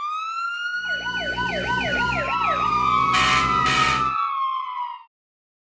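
Siren sound effect with a rapid up-and-down wail, over a low vehicle engine rumble. A steady whine rises at the start and fades out about five seconds in, and there are two short bursts of hiss about three seconds in.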